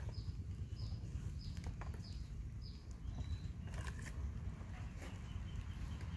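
A bird repeats a short high note five times, about every 0.6 seconds, during the first three seconds, over a low steady outdoor rumble. A few faint clicks from a knife working a melon come in later.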